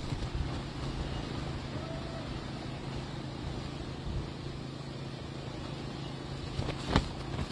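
Steady hurricane wind-and-rain noise over a low steady hum, with one sharp knock near the end.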